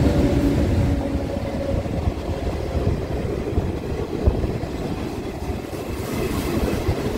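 Passenger train coaches passing close alongside, with a steady rumble and clatter of wheels on the rails. A humming tone fades out about a second in.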